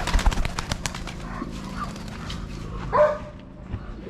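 A dog barks once, loudly, about three seconds in. A run of sharp clicks comes in the first second.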